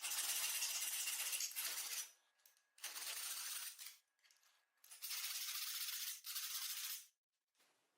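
Three bursts of gritty, hissy scraping or scrubbing noise, the longest about two seconds, separated by dead silence as if cut together.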